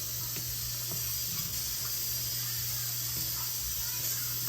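Steady hiss and faint crackle of a pan of potato curry simmering on the stove after water has been added, over a low steady hum.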